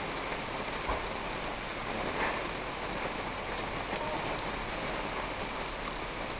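Steady rain falling in a thunderstorm, an even hiss with a couple of sharper drop hits about one and two seconds in.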